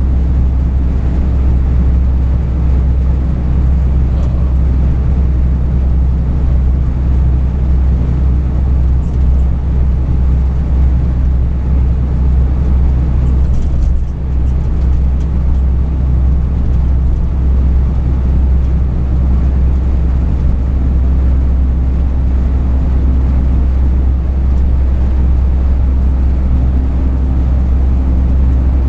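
Truck engine and road noise while driving: a steady low drone with an even engine hum.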